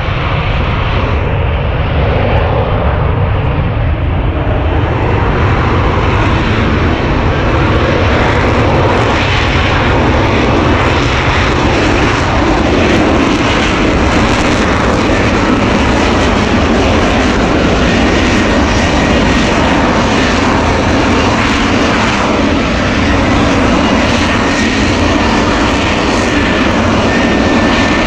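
Aircraft engine noise, loud and steady, growing brighter over the first several seconds as the aircraft draws nearer.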